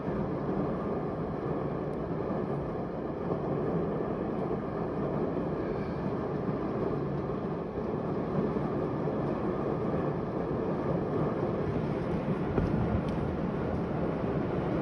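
Steady rain and wind of a thunderstorm, an even noise that holds level throughout.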